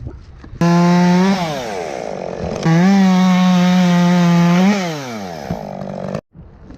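Two-stroke chainsaw revved to full throttle twice, each time holding a steady high pitch for one to two seconds before dropping back to idle; the sound stops abruptly near the end.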